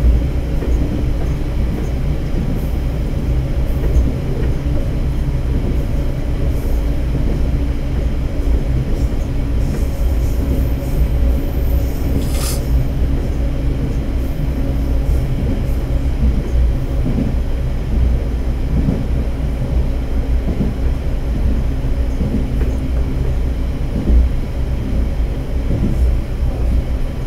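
Diesel railcar running steadily through a long railway tunnel, heard from inside the car: a continuous low rumble of engine and wheels on rail with a steady hum. A brief high squeak comes about twelve seconds in.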